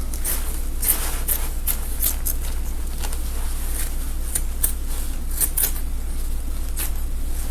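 Fabric scissors snipping through a gown's seam: a series of short, crisp cuts at an uneven pace.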